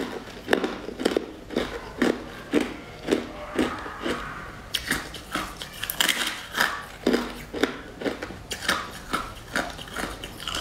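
Close-up crunching of someone biting and chewing hard frozen sticks, about two crunches a second.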